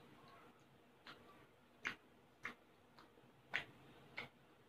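Mouth sounds of chewing a crispy fried chicken wing: a handful of faint, short clicks about a second apart.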